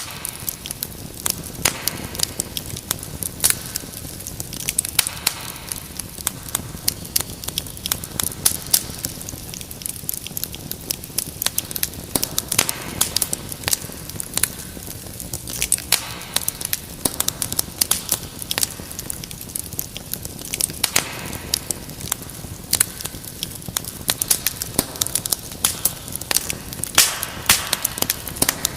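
Wood fire in a fireplace crackling, with frequent irregular sharp pops and snaps over a steady low hiss.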